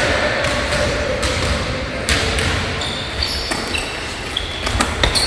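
A basketball bouncing on an indoor court, a handful of scattered thuds, with a few short high squeaks in the second half.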